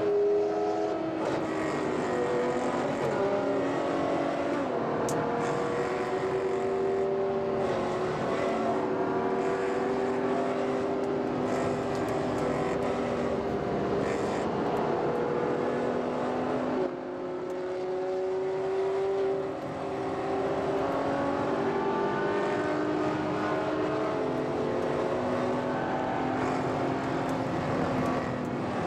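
Ferrari FF's V12 engine running under way, its pitch stepping and gliding up and down as it changes gear and speed, with two short drops in level a little past the halfway point.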